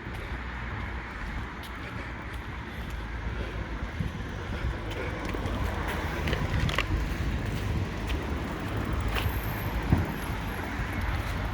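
Distant fireworks popping and crackling now and then, a few louder bangs about two-thirds of the way through, over a steady outdoor rumble of wind and distant traffic.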